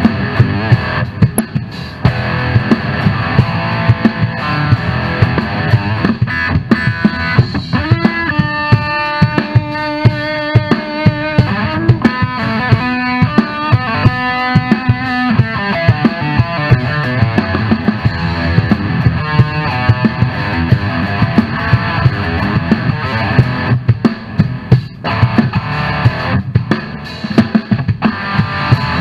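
Heavy rock guitar instrumental: electric guitar over a drum kit with a steady beat. About eight seconds in, a lead guitar plays held melodic notes for several seconds before the full rhythm part returns.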